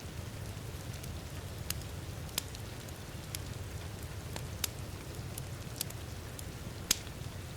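Wood fire crackling in a fireplace, with irregular sharp pops (the loudest near the end), over a steady hiss of heavy rain.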